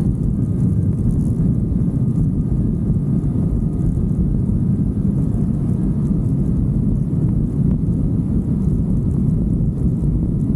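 Steady low rush of wind and engine noise from a moving motorcycle.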